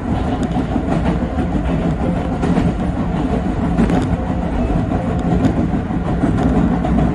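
Yoro Railway 7700-series electric train running at speed on the line, heard from inside the driver's cab: a steady wheel-on-rail rumble with a constant hum and occasional light clicks.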